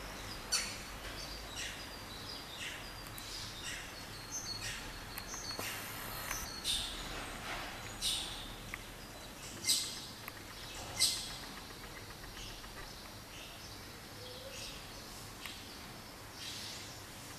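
Small birds chirping: scattered short, high calls, a few louder ones near the middle, over a steady low background hum of outdoor noise.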